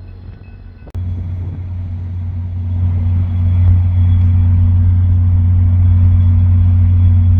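Diesel locomotive of a passenger train running with a low, steady rumble. It starts with a sharp click about a second in, then grows louder over the next few seconds and holds.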